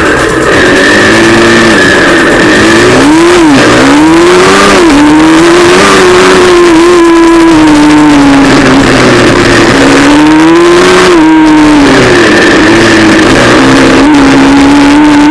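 A pit bike's YX 160 single-cylinder four-stroke engine being ridden hard, revs rising and falling under the throttle. The pitch drops sharply and climbs again a few seconds in, and again about two-thirds of the way through.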